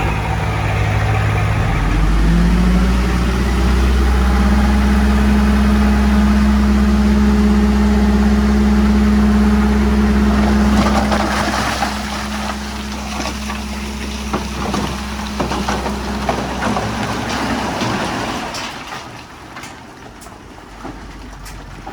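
Heavy diesel construction machine revving up about two seconds in and running hard and steady. About halfway through the engine eases and stones crunch and clatter. Near the end the engine sound drops away, leaving scattered knocks.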